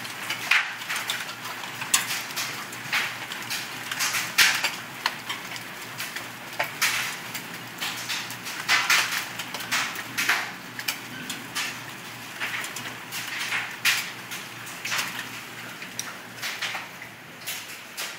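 Large hailstones, bigger than a quarter, hitting hard surfaces in an irregular clatter of sharp impacts over a steady patter.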